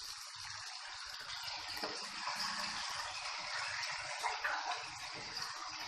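Chicken, onion and capsicum masala frying in a kadai: a steady sizzle as cashew paste is poured in and stirred with a steel spoon, with faint scraping of the spoon in the pan.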